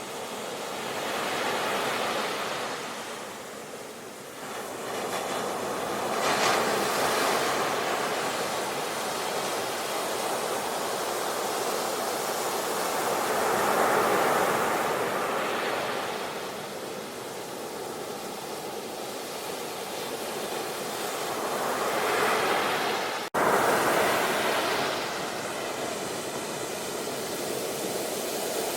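Sea waves surging and washing onto the shore, the surf swelling and ebbing every several seconds. There is a momentary dropout in the sound about three-quarters of the way through.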